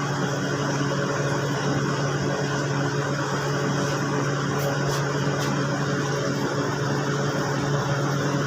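Steady machine hum with a constant low drone, unchanging throughout, with a few faint ticks near the middle.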